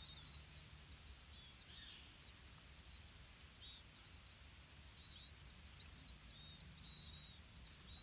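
Faint, high-pitched bird chirps repeating in a quick, continuous series over a low background rumble.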